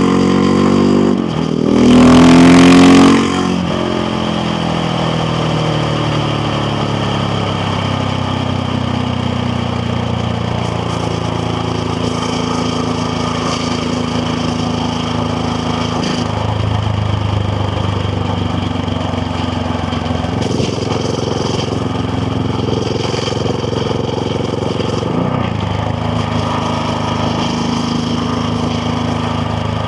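KTM Duke 690R's single-cylinder engine on the move, heard from the rider's helmet. The engine note falls as it slows, then there is a brief loud rush about two seconds in. After that the bike cruises with a fairly steady engine note that shifts a few times.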